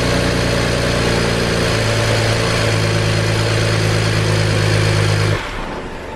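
BMW N54 twin-turbo inline-six, freshly swapped into the car, running at idle just after its first start. It runs steadily with a slight change in pitch about two seconds in, then cuts off abruptly about five seconds in.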